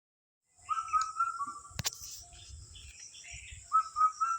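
Silence for about half a second, then birds chirping in two short bursts of calls, over a steady high-pitched insect drone. A single sharp click comes just before two seconds in.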